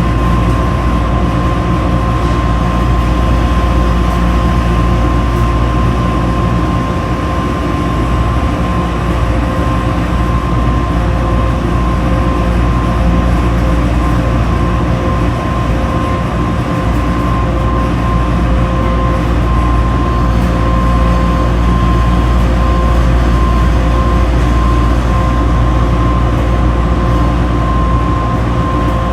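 Washing machine running: a steady rumble with a constant high whine over it.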